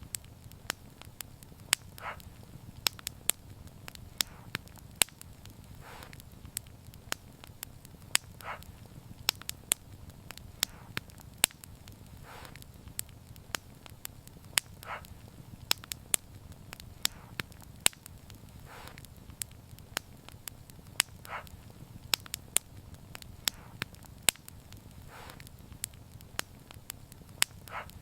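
Wood fire burning with frequent sharp crackles and pops over a low, steady rumble of flame. Every few seconds there is a softer, longer pop.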